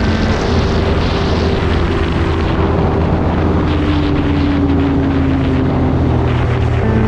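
Motorcycle engine running at road speed with wind rushing over the microphone; the engine tone eases slowly lower midway.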